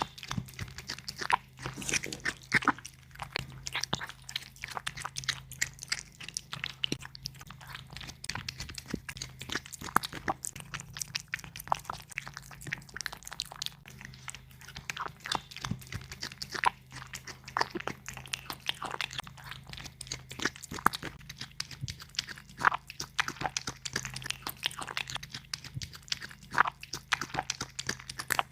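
A cat chewing and biting meat close to the microphone: irregular wet clicks and crunches, several a second, with brief pauses.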